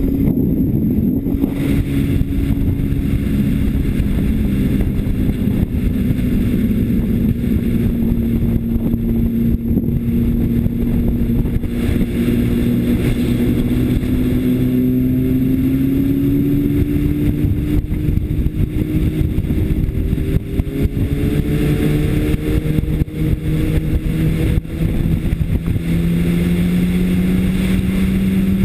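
2005 Honda CBR600RR's inline-four engine running hard on track over steady wind noise. Its note holds fairly level through the first half, then climbs steadily in pitch over the second half as the bike accelerates.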